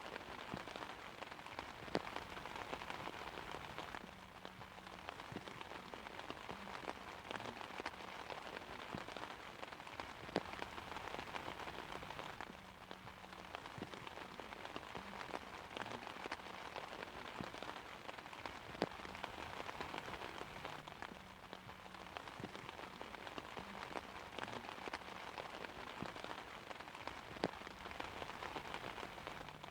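Steady rain falling on an umbrella: a constant hiss of drops, with individual louder drop hits standing out every few seconds.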